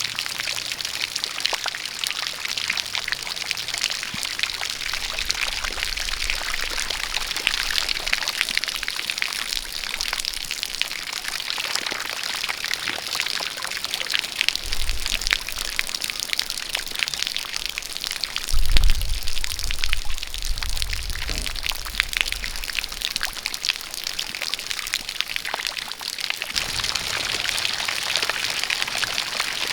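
Steady rain with a stream of water pouring and splashing: a constant hiss with a dense patter of drops. A low rumble swells briefly about two-thirds of the way through.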